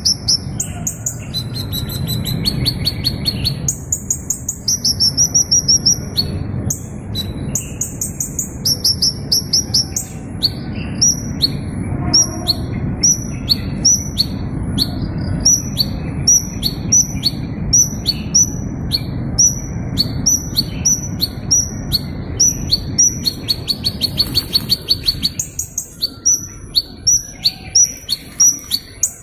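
A small bird chirping in fast series of short, high-pitched notes, each sweeping down slightly, with brief pauses between bursts. A steady low background noise runs underneath.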